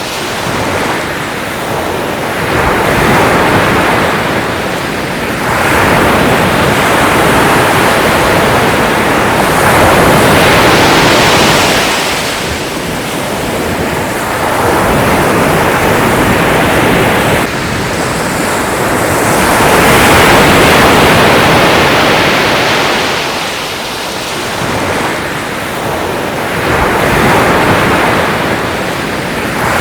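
Ocean surf: waves breaking and washing in, the rushing noise swelling and falling back every few seconds.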